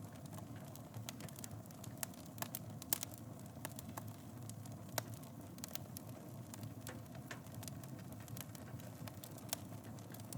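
Wood fire burning in a fireplace, crackling with irregular sharp pops over a low steady rumble. The loudest pop comes about three seconds in.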